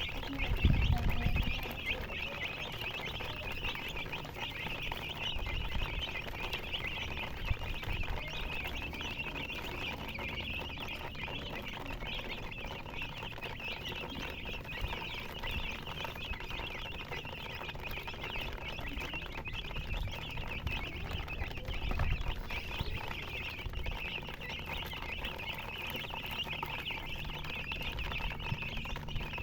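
A brood of baby chicks peeping continuously, many high calls overlapping into a steady chatter, with a few dull low bumps about a second in and again later on.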